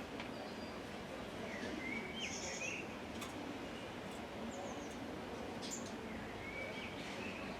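Small birds chirping faintly over steady outdoor background noise at a bird feeder, with a few short calls about two seconds in and again near the end.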